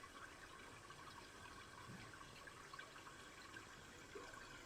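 Faint, steady babbling of a shallow river stream.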